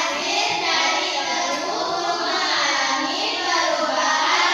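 Children singing a song together, several young voices carrying a continuous melody.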